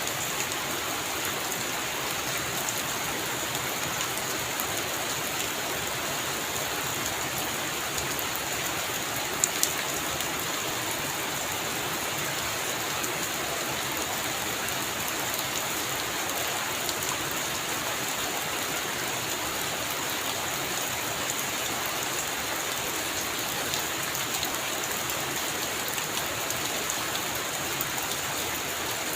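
Heavy rain falling steadily on a roof, with two sharp taps close together about nine and a half seconds in.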